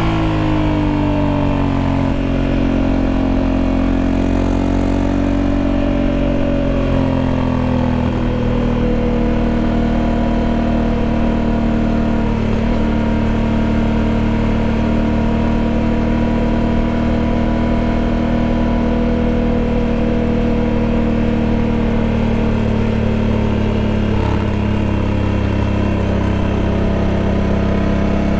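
Honda Africa Twin 1100's 1084 cc parallel-twin engine running steadily. Its pitch eases down over the first several seconds, holds nearly level, then rises a little near the end.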